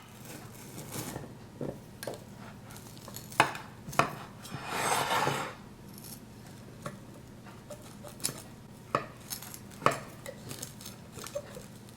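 Kitchen utensil clinking and scraping against a pan while sticky marshmallow-and-cereal mixture is spread out. There are scattered light knocks and a longer rustling scrape about five seconds in.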